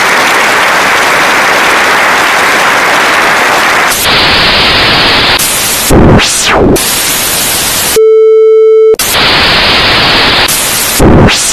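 Loud TV-static hiss whose tone changes about four seconds in. Twice a quick whoosh cuts through it, and about eight seconds in there is a steady one-second beep.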